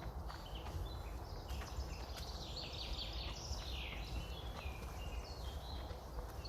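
Songbirds singing in woodland, with a run of quick notes falling in pitch in the middle. Under them, wind rumbles on the microphone and footsteps on the path tap faintly now and then.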